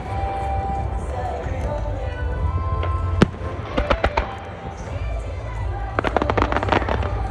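Fireworks going off over music: a single sharp bang about three seconds in, a few more pops a second later, and a rapid run of crackling pops near the end.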